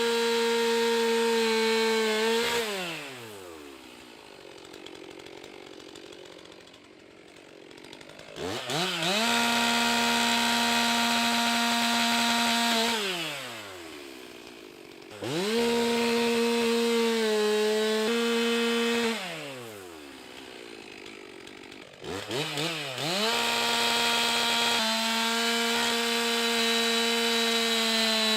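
Stihl MS 362 C-M two-stroke chainsaw run at full throttle in four long bursts, falling back to idle between them, each burst steady in pitch as it works through wood.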